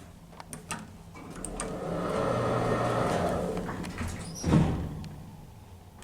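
Lift doors sliding, with a few clicks, a swelling run of door noise, then a thud about four and a half seconds in as they meet. The lift is an Otis Gen 2 with a machine-room-less drive.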